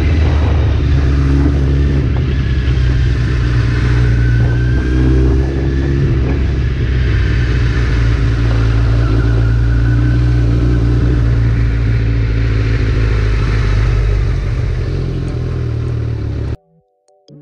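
Kawasaki Z900's inline-four engine running as the motorcycle is ridden at low speed, a steady low engine note that rises and falls slightly with the throttle. It cuts off suddenly near the end.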